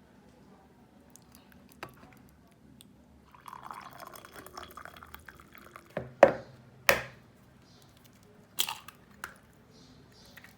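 Liquid poured for about two seconds, followed by a few sharp knocks, the loudest just after the pour ends.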